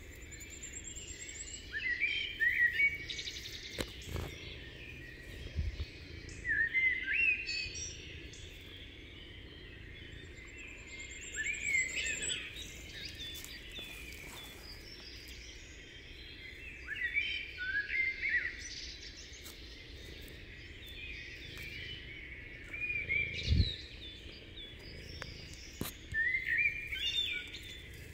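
A songbird singing in short chirping phrases every five seconds or so, with a thin high trill twice. A few low thuds are heard, over a steady outdoor background hiss.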